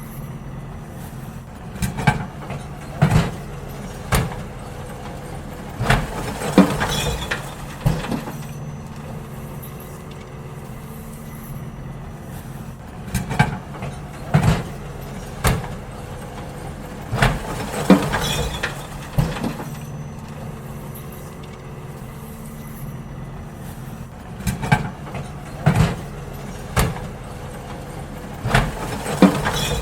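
Garbage truck emptying bins: its diesel engine runs steadily while groups of sharp bangs and clatters come every several seconds as bins are tipped and knocked against the truck.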